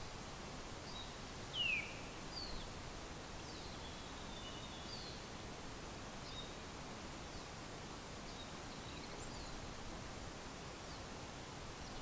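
Small birds calling in short, scattered chirps, the loudest a single falling note about two seconds in, over a faint steady outdoor background hiss.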